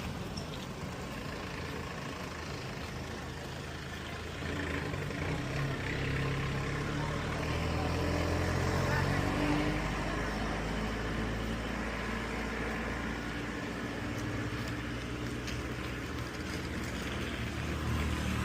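Motor vehicle engine running on the move over road noise. It grows louder about four seconds in, and its pitch rises and falls with the throttle.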